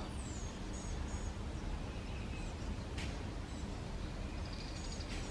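Faint high bird chirps: a few short calls in the first second and more near the end, over a steady low rumble. A single faint click about three seconds in.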